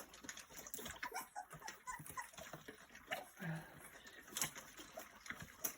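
Puppies feeding, with many small, faint lapping and chewing clicks and a few brief puppy squeaks.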